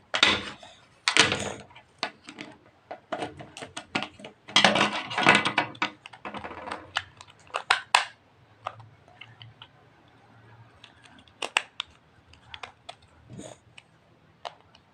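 Irregular, rapid clicking and clattering of small hard objects being handled, dense for the first half and then thinning out to scattered clicks.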